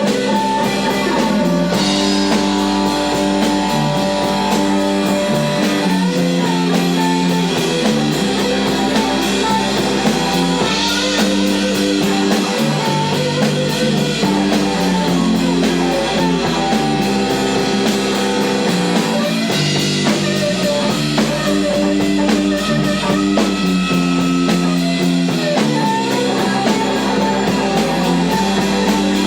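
Rock band playing live, electric guitar to the fore over drums, with a riff that comes round about every six and a half seconds.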